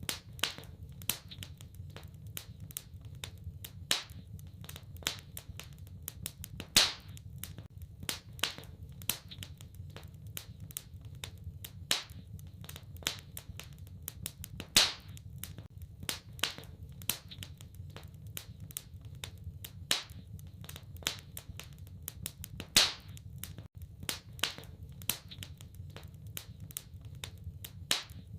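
Wood fire in a fireplace crackling, with irregular small snaps and a louder pop every few seconds over a steady low rumble.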